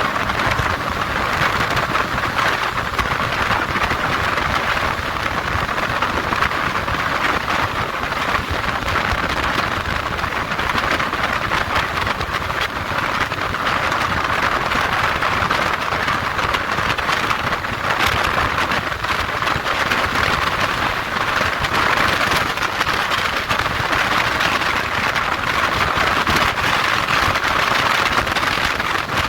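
Steady rushing wind and road noise of a motorcycle ride at speed, an even hiss with no clear engine note.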